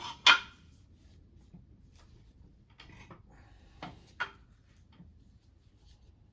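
A few sharp knocks and clicks of hard objects being handled or set down. The loudest comes just after the start, and two more follow close together around four seconds in.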